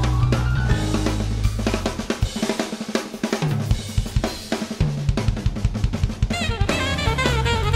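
Live jazz combo playing, the drum kit busy with snare, bass drum and cymbals. The bass drops out for a short drum break in the middle, and a saxophone line with vibrato comes in near the end.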